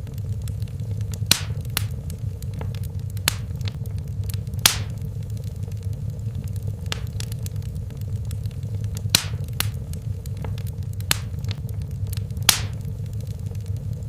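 Fire in a fireplace: the flames give a steady low rumble, with irregular sharp crackles and pops throughout, several of them louder than the rest.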